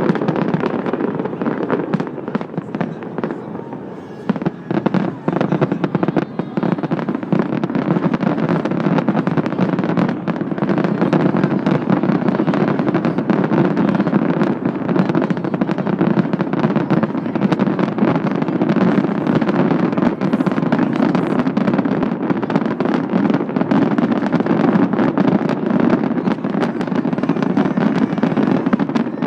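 Fireworks going off in a dense barrage of rapid bangs and crackles, easing briefly a few seconds in, then building back to a near-continuous volley.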